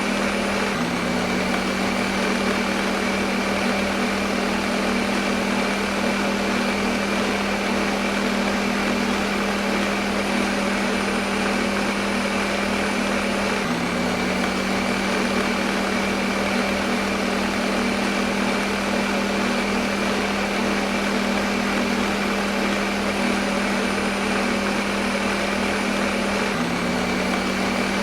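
Electric kitchen blender motor running steadily at full speed, a constant whirring hum with a rushing whir over it. The hum's pitch hitches briefly about a second in and again roughly every 13 seconds.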